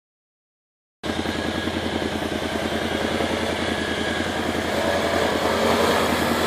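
Silence for about a second, then a tracked ATV's V-twin engine running steadily with a pulsing low rumble, growing slightly louder.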